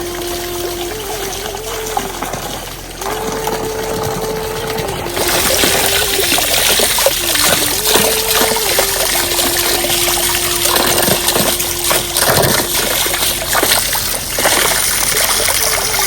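Heavy rain with running, splashing water, growing louder about three and five seconds in. Under it a faint held tone steps slowly between a few pitches, like a slow melody line.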